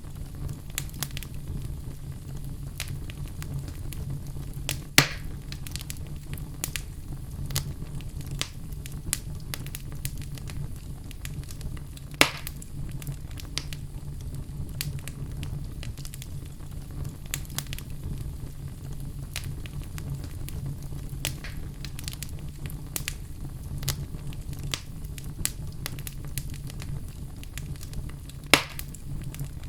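Wood logs burning in a fireplace: a steady low rumble of the flames with frequent small crackles. Three sharp, louder pops stand out, about five seconds in, about twelve seconds in and near the end.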